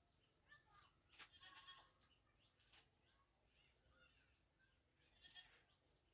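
Near silence with faint, short animal calls and a few sharp taps or knocks.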